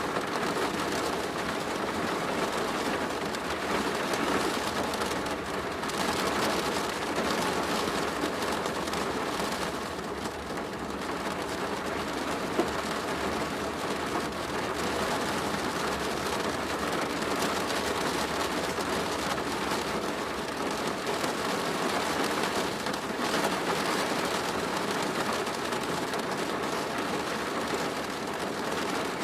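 Steady rain drumming on a plastic roof, a dense even patter that swells and eases slightly.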